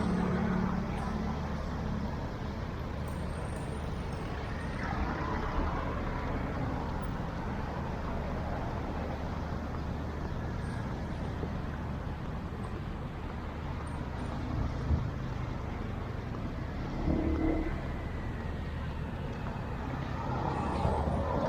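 Steady road traffic: motor vehicles running and passing with a continuous low rumble, with a few brief louder moments and a louder stretch near the end.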